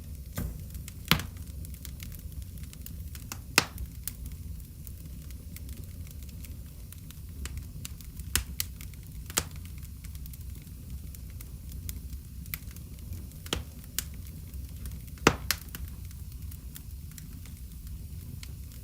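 Wood fire crackling in a fireplace: sharp, irregular pops and snaps over a steady low rumble of burning.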